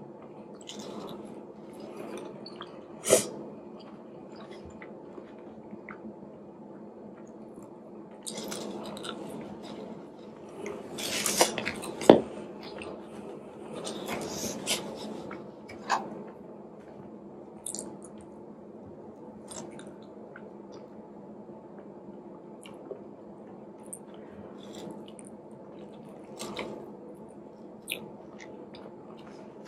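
Close-miked eating: chewing and mouth noises on a mouthful of jollof rice, with a few sharp clicks of a plastic spoon and fork against a foam takeout box. A faint steady hum sits underneath.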